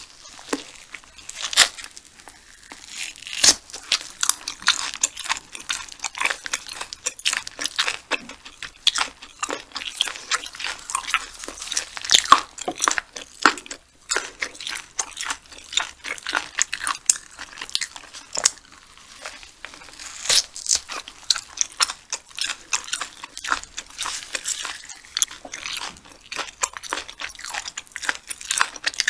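Close-miked eating of sea hare: biting and chewing throughout, with many sharp crunchy clicks.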